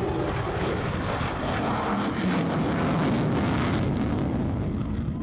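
F-14 Tomcat jet engines in flight overhead: a steady rushing jet noise that swells a little about two seconds in, with wind buffeting the microphone.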